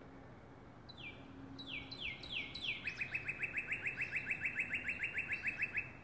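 A songbird singing. About a second in come four or five slow notes, each sliding down in pitch, then a fast trill of about seven shorter downslurred notes a second that stops abruptly near the end.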